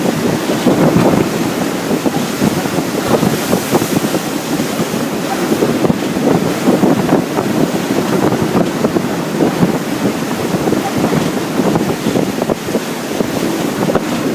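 Storm wind buffeting the microphone in a continuous, rapidly fluttering rush, over the wash of rough sea water around a sailboat.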